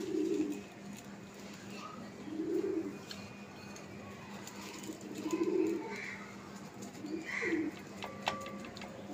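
Bird cooing: four low calls, each about half a second long, spaced two to three seconds apart.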